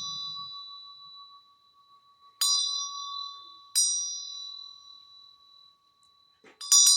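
A small metal bell struck twice a little over a second apart, each stroke ringing with clear, high tones that slowly fade, then rung in a quick run of strokes near the end.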